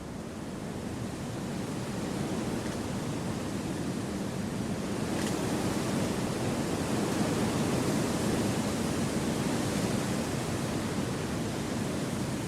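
Wind rushing through forest trees, a steady noise that swells over the first couple of seconds and gusts strongest in the second half.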